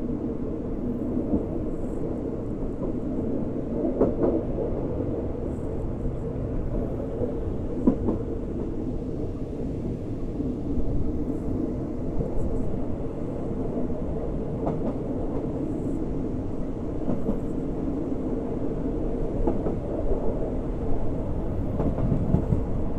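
Passenger train carriage rolling along the track, heard from its open window: a steady rumble of wheels on rails with a few sharper clacks standing out here and there.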